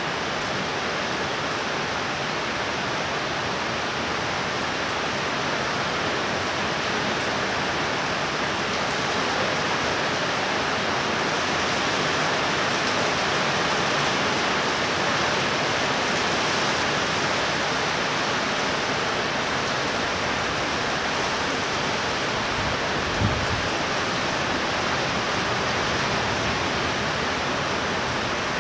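Heavy rain falling steadily, an even hiss of rain on roofs and the street. About three-quarters of the way through there is one brief low thump.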